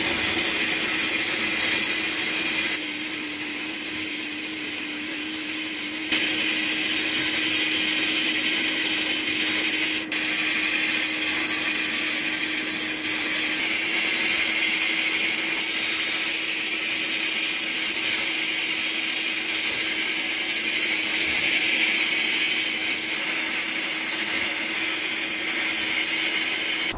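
A small power tool running steadily with a high hiss over a steady motor hum, working the rusty stapler. It drops a little about three seconds in and picks up again about three seconds later.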